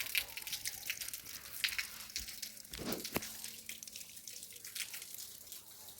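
Water splashing and dripping in irregular small splashes, like hand washing at a tap or basin, with a dull thump about three seconds in.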